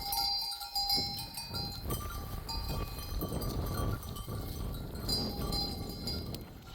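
Bells on a flock of sheep and goats ringing in a jangle of overlapping tones as the herd moves, over a rough low rustling noise.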